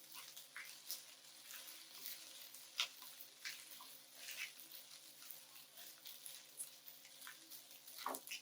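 Rice stir-frying in a wok: a faint steady sizzle, with scattered scrapes and taps of the stirring utensil against the pan.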